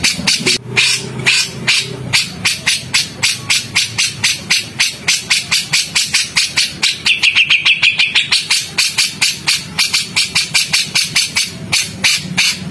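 A songbird giving a rapid, harsh chattering call, about six sharp notes a second, with a brief whistled note about halfway through. It is a rough, scolding call of the kind used as training audio for white-rumped shamas.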